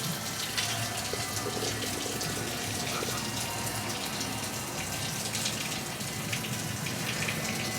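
Steady running and splashing water.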